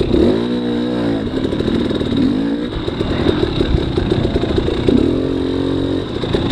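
300cc two-stroke dirt bike engine under the rider, revving in blips: a quick rev that rises and falls about half a second in, lower choppy running in between, and another held rev around five seconds in.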